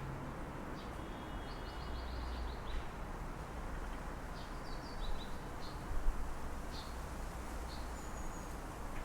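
City ambience through an open window: a steady low hum of distant traffic, with short, high bird chirps coming in small bouts throughout.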